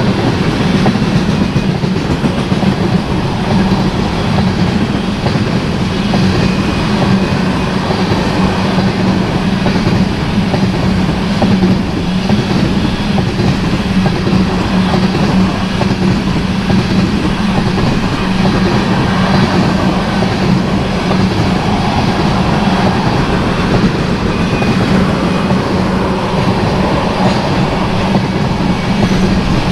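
Tank cars of a freight train rolling steadily past at close range: continuous rumble and clatter of steel wheels on the rails, with a steady low hum underneath.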